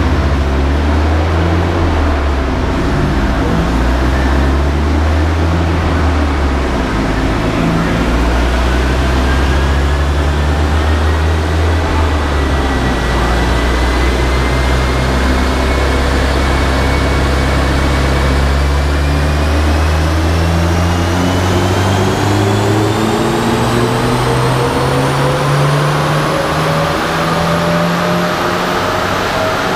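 Volvo 240 engine running on a chassis dyno, its pitch climbing slowly and steadily as the car gathers speed on the rollers, over a steady low drone.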